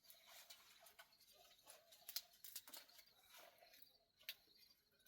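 Near silence: faint outdoor ambience with a few soft clicks, the sharpest about two seconds in and another about four seconds in, over a faint, rapid high chirping.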